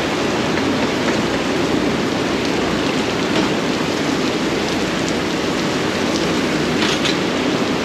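Steady heavy rain, a dense, even patter that keeps up at one level throughout.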